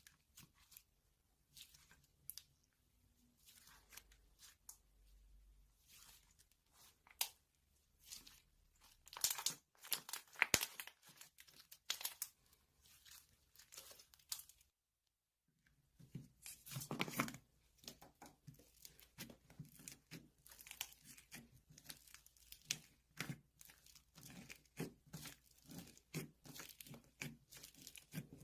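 Irregular crinkling and tearing, like material being torn and crumpled by hand, in quick uneven crackles. The louder stretches come about a third of the way in and just past halfway, and there is a brief dead gap in the middle.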